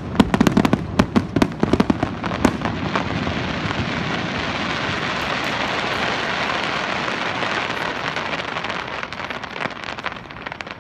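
Aerial fireworks: a quick run of sharp bangs from bursting shells over the first couple of seconds, then a dense, steady crackle from glittering crackling stars that fades toward the end.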